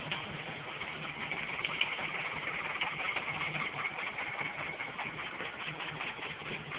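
Steam engine running steadily, with rapid clicking beats over a constant hiss and a low steady hum; a thin high whine rises over it from about one and a half seconds in until about five seconds in.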